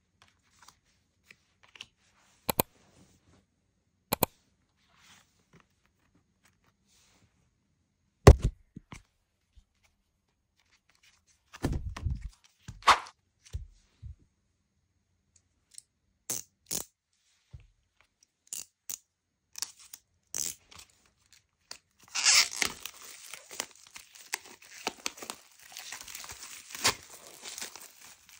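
Scattered taps and clicks of a card and a cardboard album being handled, with one sharp knock. About two-thirds of the way through comes continuous crinkling and tearing of plastic shrink-wrap being peeled off an album.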